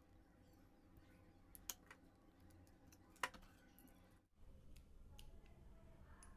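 Near silence with two sharp clicks about a second and a half apart and a few fainter ticks: small metal parts of a spinning reel being handled while it is taken apart.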